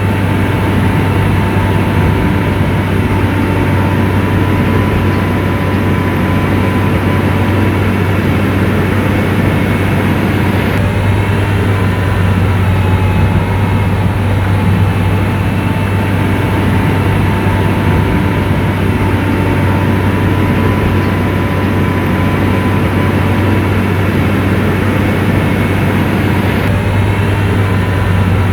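SDLG motor grader's diesel engine running steadily under load with a deep low drone and a faint wavering whine above it.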